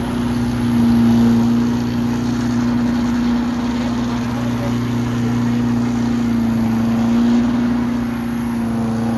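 Vehicle engine running steadily at an even pitch, swelling slightly about a second in and again near the end.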